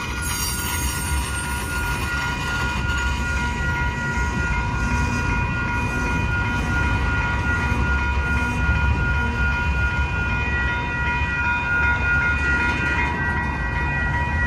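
Double-stack container freight train rolling slowly through a grade crossing, its cars giving a steady low rumble, with the crossing bell ringing steadily over it.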